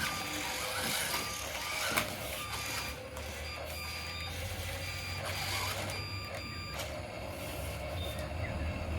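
Small electric motor of a remote-control toy vehicle running steadily, with short electronic beeps over it.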